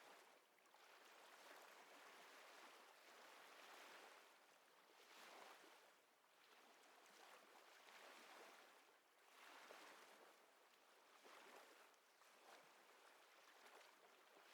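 Faint ocean waves washing ashore, a soft hiss that swells and fades every couple of seconds.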